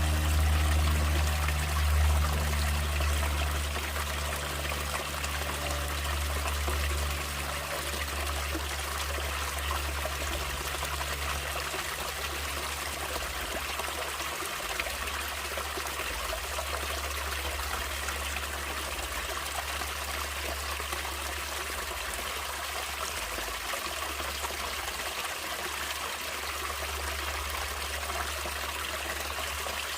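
A natural stream trickling and flowing steadily, with a low rumble underneath.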